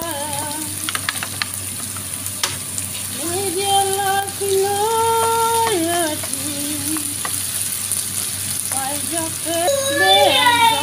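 Diced bacon, bell peppers and onion sizzling in a frying pan as they are stirred with a wooden spoon, with a few clicks of the spoon on the pan. A sung melody of held and sliding notes plays over it and is the loudest part.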